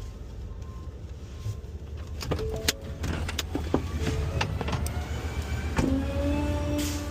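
Rear-loader garbage truck running with a steady low rumble. From about two seconds in, trash clatters and knocks in a quick series of sharp hits. Near six seconds a steady pitched hum starts abruptly and holds.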